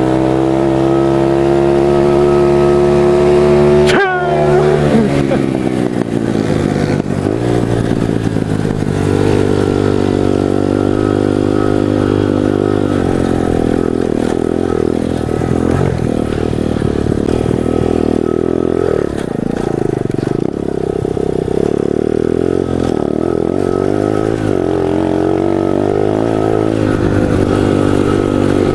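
Pit bike engine revving hard in a race from a standstill, its pitch climbing. About four seconds in the revs drop sharply, then the engine runs on at varying revs.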